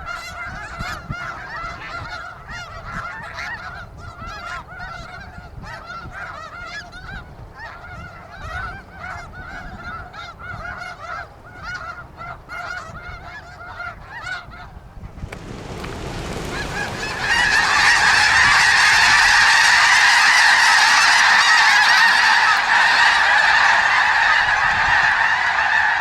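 A large flock of snow geese calling, many overlapping honks at once. About fifteen seconds in, the calling swells over a couple of seconds into a much louder, continuous din of massed calls.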